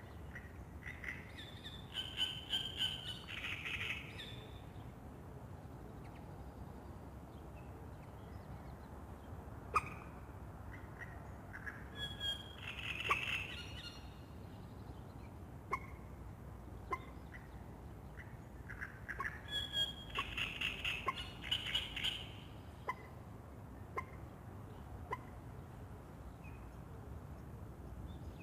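Wild birds calling: three bouts of quick, rapidly repeated calls of about two seconds each, with scattered single short calls between, over a steady low background noise.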